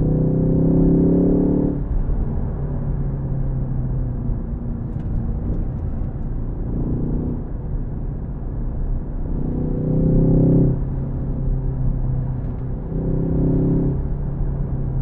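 Ford Focus ST's turbocharged four-cylinder engine pulling under throttle with a rising note, easing off about two seconds in. Shorter pulls follow around seven, ten and thirteen seconds in, with a steady engine drone and road noise between.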